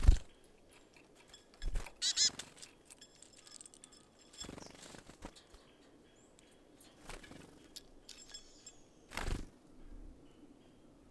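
Small birds at a feeder: a handful of sudden knocks and flutters as birds land, peck and take off. A short bird call comes about two seconds in.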